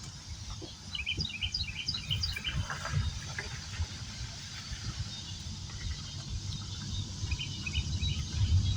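A small songbird chirping in quick runs of short, high notes, one run about a second in and a shorter one near the end, over a constant low outdoor rumble.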